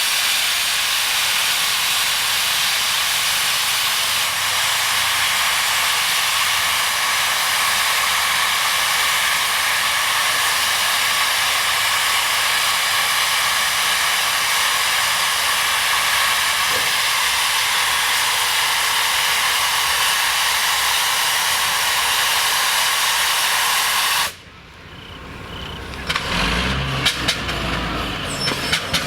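Steam engine venting steam: a loud, steady hiss that cuts off suddenly about 24 seconds in, followed by a low rumble and scattered knocks.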